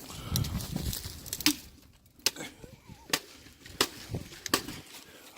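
Ice on a frozen pigeon water dish being knocked and broken: a few sharp cracks and knocks about a second apart, with some rough handling noise at the start.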